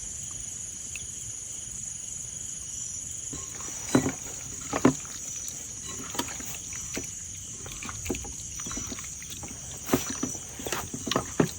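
Crickets chirring steadily, with a few short knocks and clicks about four seconds in and a cluster of them near the end.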